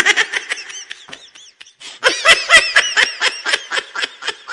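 High-pitched laughter, a rapid run of short ha-ha pulses, in two bouts with a brief pause about one and a half seconds in.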